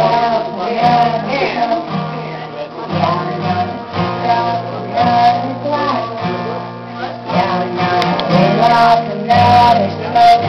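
Acoustic guitar strummed in a song, chords ringing with a steady rhythm of strokes.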